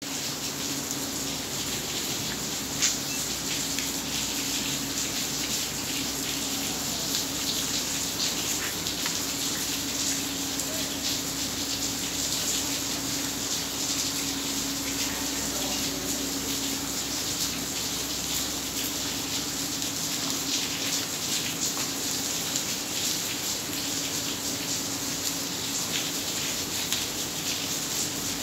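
Heavy rain pouring steadily onto a waterlogged courtyard and lawn, a dense hiss of drops splashing into standing water. A faint steady hum sits underneath, and there is one sharp louder tap about three seconds in.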